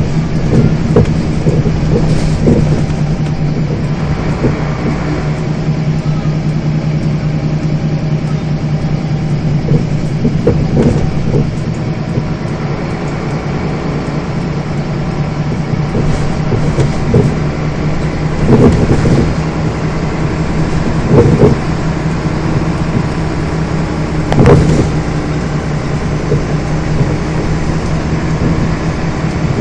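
Scania bus running, heard from inside the passenger cabin: a steady low engine drone with body rattles and knocks, a few louder bumps in the second half.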